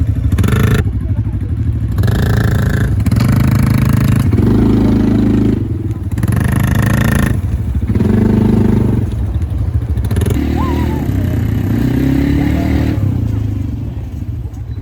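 ATV engine running under way, a steady low drone with louder stretches every second or two.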